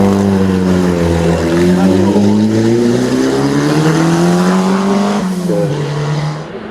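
Race car engine under full throttle, its pitch climbing steadily for a few seconds, then dropping sharply at an upshift about five seconds in, after which the sound fades.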